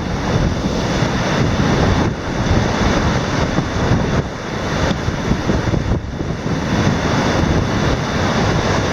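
Strong typhoon wind gusting across the microphone: a loud rush of noise that swells and dips.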